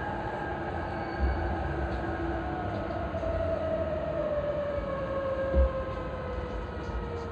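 E233-3000 series commuter train running, heard from inside the car: the traction motors' whine falls slowly in pitch over a steady wheel rumble as the train slows, typical of braking on the approach to a station. Two low thumps come about a second in and near six seconds in, the second the louder.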